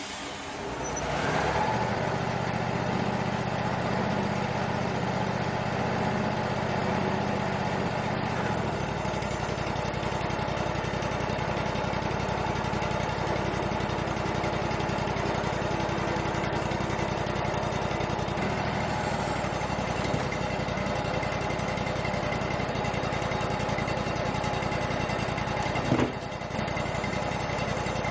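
Wood-Mizer LT35 sawmill's engine running steadily, coming up in level about a second in and changing its low pitch about 8 seconds in. A single short knock near the end.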